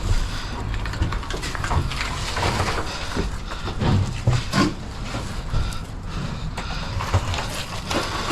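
Irregular knocks and clanks of scrap metal being handled, over a steady low rumble.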